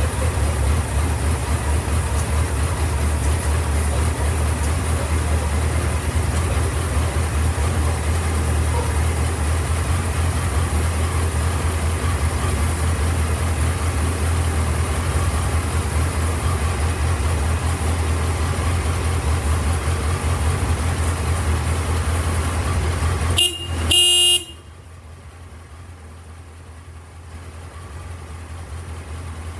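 Suzuki GSX1300R Hayabusa's inline-four engine idling steadily just after starting. Near the end the horn sounds briefly, about a second, and the engine is then switched off, cutting out abruptly.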